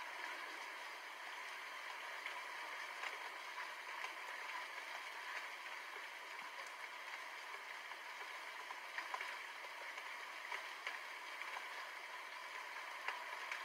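Steady rain falling, a constant hiss with scattered drops ticking sharply here and there; no thunder rumble.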